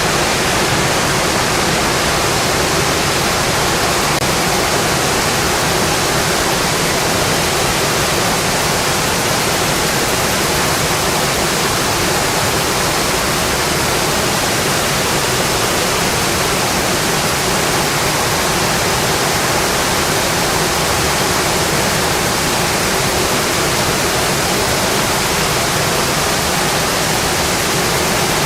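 Heavy, steady rain drumming on a metal roof, an even dense wash of sound.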